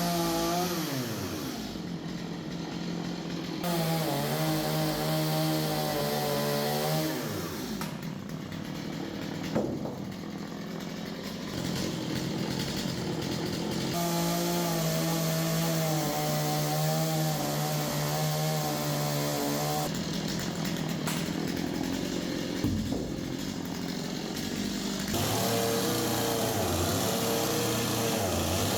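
Two-stroke chainsaw held at high revs in several runs of a few seconds each, the pitch dropping away after each run before revving up again, as when cutting through wood.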